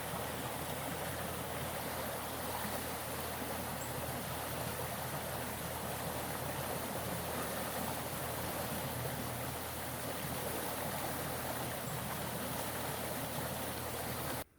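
A stream of water rushing steadily, with no change in the flow; it cuts off suddenly at the end.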